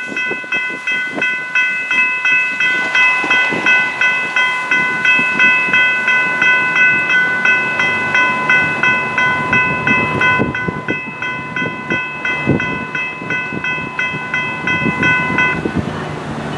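SunRail commuter train going by with its wheels clicking and knocking over the rails, while a bell rings rapidly, about three strokes a second, and stops about a second before the end.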